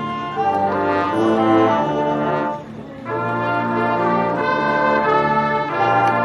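Marching band brass section playing sustained chords, broken by a short rest about two and a half seconds in before the full band comes back in.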